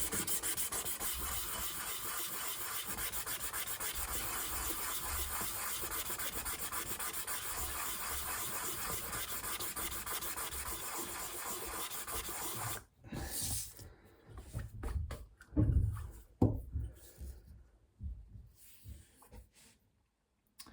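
Wooden pipe bowl rubbed round and round on 1500-grit automotive sandpaper, a steady fast scratching, to top the rim and take off the burn marks. It stops suddenly about 13 seconds in, and scattered handling knocks and a couple of thumps follow.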